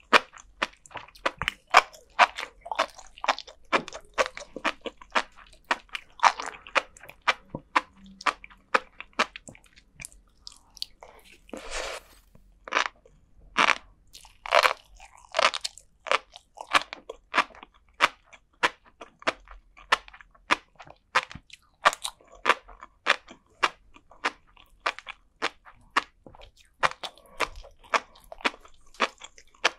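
Close-miked chewing of flying fish roe and sea grapes: a continuous run of many small, sharp pops and crackles as the tiny eggs and beads burst between the teeth, with a few louder pops around the middle.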